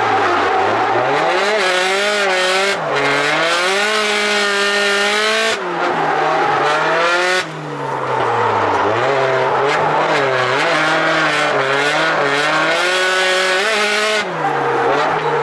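Turbocharged drift car's engine revving hard, its pitch rising and falling again and again as the throttle is worked, with tyre squeal through the slides.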